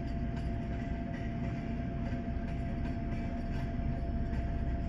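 Drilling rig working close by: a continuous low rumble and drone with a steady whining tone over it, sounding like a train.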